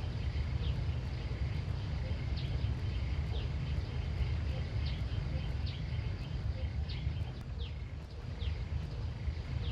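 Small birds giving short, downward-sliding chirps every second or so over a steady low rumble.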